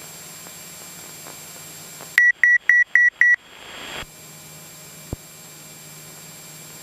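Five quick, high electronic beeps, evenly spaced about four a second, over the steady drone of a Cessna 172SP's engine in the cabin. The drone drops out while the beeps sound, and a single sharp click follows a couple of seconds later.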